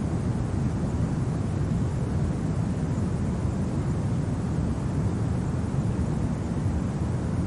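Steady low rumbling wind, an even noise with no gusts or breaks.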